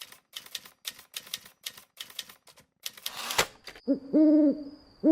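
Typewriter keys clacking about a dozen times, then a quick carriage-return swish. After that an owl hoots a few times over a thin, high, steady ring; the hoots are the loudest part.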